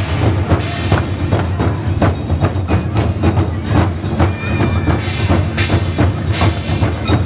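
Percussion music: rapid drum and wood-block-like strokes in a steady rhythm over a low steady hum, with bright high splashes now and then.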